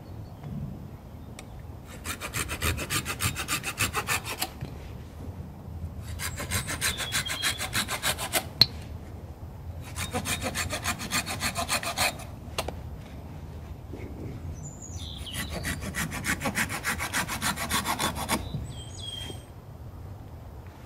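Hand saw cutting through wood in four bouts of quick, even back-and-forth strokes, with short pauses between. A bird chirps faintly during the last bout.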